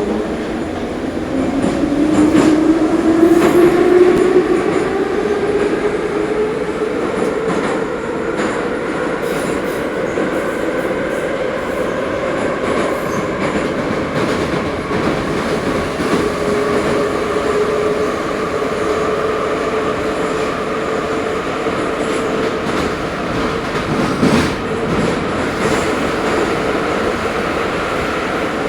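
Ezh3 metro train running between stations. The whine of its traction motors rises in pitch for the first several seconds as the train gathers speed, then holds steady over the rumble of wheels on rail. A single knock sounds near the end.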